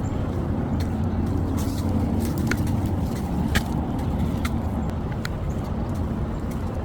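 Footsteps on a path, about one a second, as light ticks over a steady low rumble.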